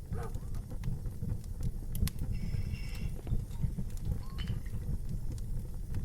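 A wood fire burning, with a steady low rumble and irregular sharp crackles and pops from the logs. Brief high squeaks come about two and a half seconds in and again near four and a half seconds.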